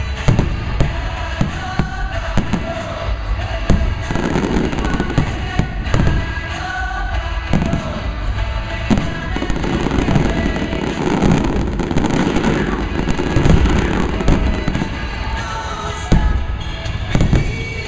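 Aerial fireworks shells bursting in rapid, irregular succession, many sharp bangs with a heavy low rumble, over music played along with the show.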